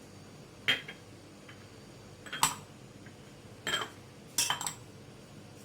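Kitchen utensils clinking against a mixing bowl while chopped mint leaves go into the bonda batter ingredients: four short clinks about a second apart, the second the loudest and the last a quick double.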